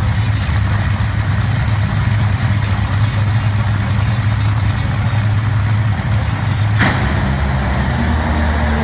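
Loud racing engine running with a steady low drone. About seven seconds in, a sudden rush of hiss joins it.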